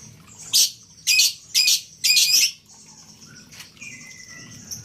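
Lovebird calling: four loud, shrill chirps in the first two and a half seconds, the last one longer, then softer twittering.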